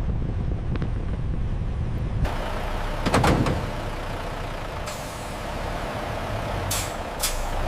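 Truck engine running with a steady low rumble, a short air-brake hiss about three seconds in, and two sharp clicks near the end.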